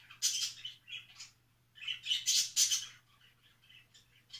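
A small bird chirping in several short, high bursts.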